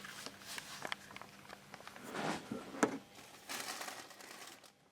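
Faint handling noise: rustling and crinkling with a few sharp clicks, over a faint steady low hum.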